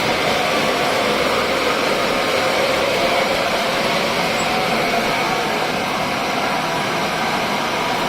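Old machine running with a loud, steady mechanical noise.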